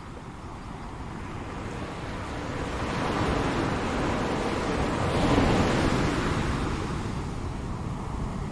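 Ocean waves breaking on a shore: a wave's surf noise swells over a few seconds, peaks a little past the middle, then washes back and fades.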